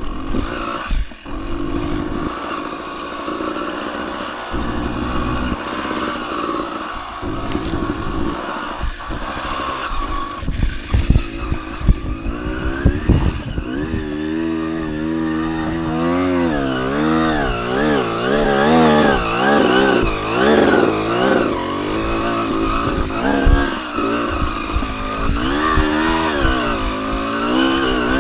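Dirt bike engine working under varying throttle while riding rough trail, with loud thumps from the bike around the middle. In the second half the engine revs up and down again and again.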